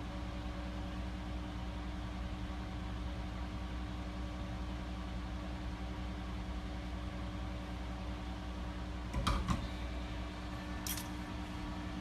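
Steady mechanical hum of a fan or running machine, with a few handling knocks about nine seconds in and a single sharp click near the end.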